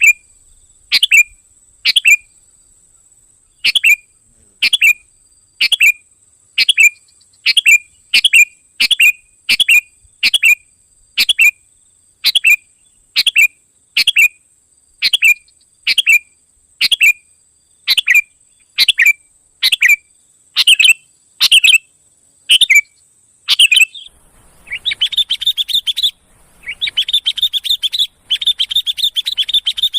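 Sooty-headed bulbul (kutilang) calling loudly in short sharp notes about once a second. About 24 seconds in, it breaks into rapid, continuous chattering.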